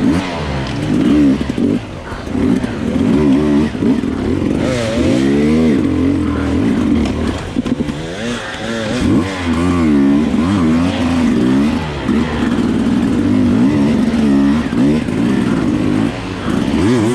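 Enduro dirt bike engine revving up and down over and over as the throttle is opened and closed, its pitch rising and falling every second or two.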